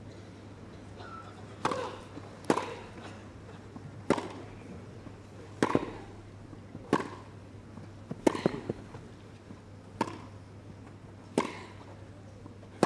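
Tennis rally: a ball struck back and forth by rackets, a sharp pop about every one and a half seconds, around eight hits in all.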